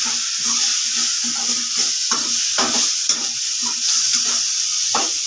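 Potatoes, onion, tomato and ground spices sizzling in hot oil in a kadhai while a slotted metal spatula scrapes and stirs them, about two strokes a second: the masala is being fried.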